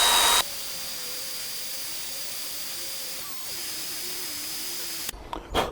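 Power drill spinning a coarse-grit abrasive that grinds rust out of a motorcycle gear-shift pivot: a loud, steady whine that drops sharply about half a second in to a quieter, steady whirr. The whirr cuts off abruptly near the end, followed by a couple of knocks.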